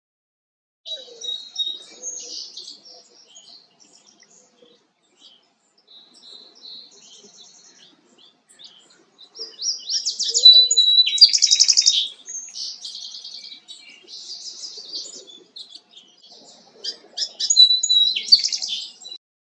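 A songbird singing a complex song of whistled notes, buzzy stretches and fast trills, in three loud bouts with quieter phrases between.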